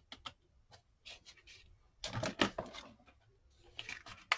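Paper-craft handling: light clicks and short scratching, rubbing noises, heaviest about two seconds in. An embossing heat gun switches on right at the end with a steady blowing noise.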